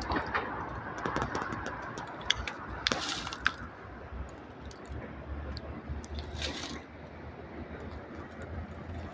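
Diesel multiple unit standing at a station platform: a low steady engine hum comes in about halfway through, with two short hisses of air and scattered clicks and knocks.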